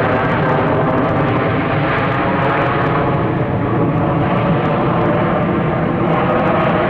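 Jet airliner engines running loud and steady at close range: an even rush with many whining engine tones layered over it.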